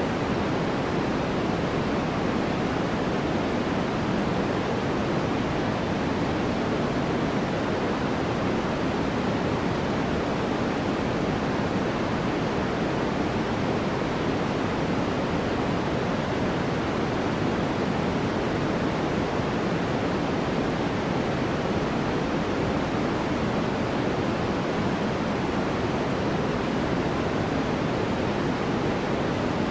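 Steady, unchanging white noise: an even hiss, fuller and deeper than it is bright.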